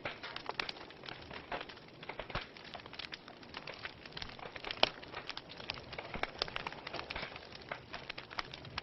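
Wood fire in a fireplace burning, with irregular crackles and sharp pops over a soft steady hiss; one louder pop about five seconds in.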